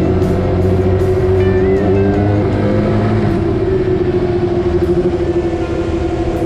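Motorcycle engine running at a steady speed while riding, its pitch holding nearly level with slight rises and dips, under background music.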